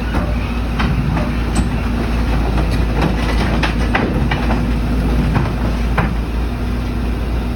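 A heavy machine's engine running steadily, with repeated sharp metallic knocks and clanks over the rumble.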